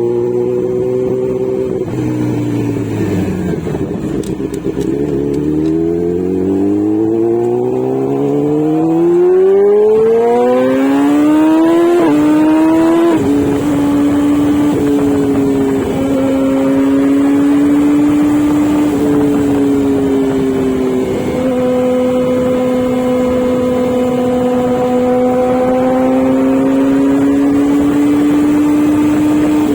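Sport motorcycle engine under way: the note drops as it slows in the first few seconds, then climbs steadily through the revs with two quick gear-change steps about twelve seconds in, then holds a steady note at cruising speed.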